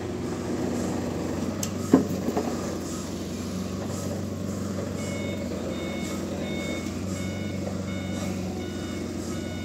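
A vehicle's reversing alarm beeping about twice a second, starting about five seconds in, over the steady running of a diesel engine. One sharp clank about two seconds in.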